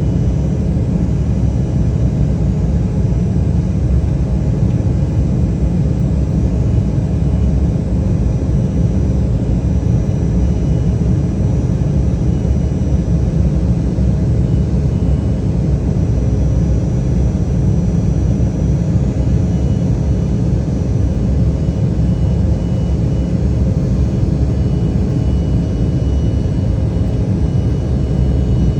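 Embraer 175 jetliner under way, its two GE CF34 turbofans running steadily: a deep, even rumble with faint high whining tones above it.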